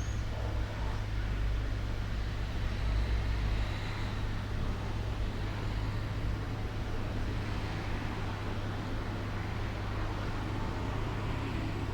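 Steady outdoor background noise with a low rumble of road traffic.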